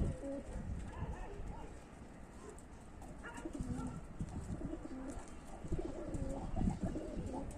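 Domestic pigeons cooing: short, low coos repeated on and off.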